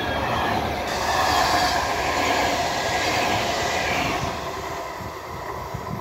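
Double-deck regional passenger train passing close by at speed: rushing wheel-and-rail noise with a steady whine, loudest for the first four seconds, then fading as the train recedes.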